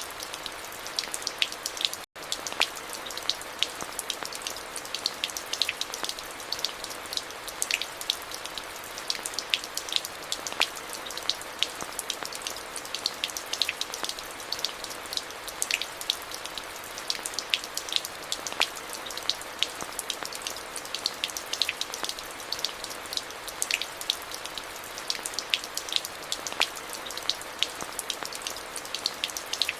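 Steady rain falling, a continuous hiss with many individual drops ticking sharply on hard surfaces. About two seconds in the sound cuts out for an instant.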